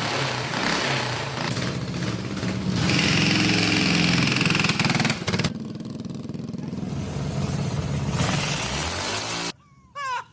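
Three-engine drag mini bike running under throttle on a test pass after new chains were fitted, with a higher whine for a couple of seconds in the middle. The engine sound cuts off abruptly near the end.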